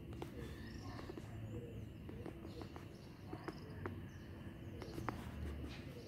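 Birds calling outdoors: a few short high chirps over a steady low background, with several sharp clicks.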